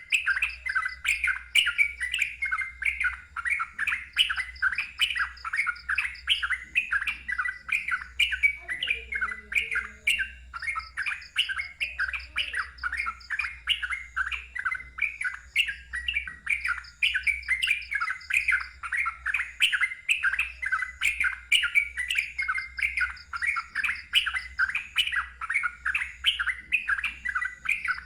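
Yellow-vented bulbul (trucukan) singing in a rapid unbroken stream of short loud notes, about three to four a second.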